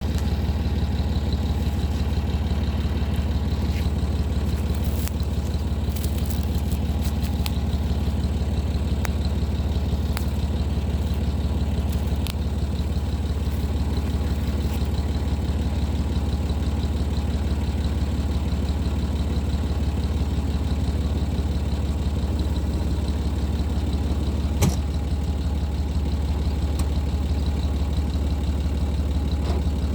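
Small tractor's engine running steadily while disking with a disc harrow, with one sharp click about three quarters of the way through.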